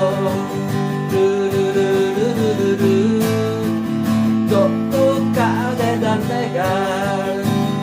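Acoustic guitar strumming the intro of a slow song, with a melody line that slides and wavers above the chords.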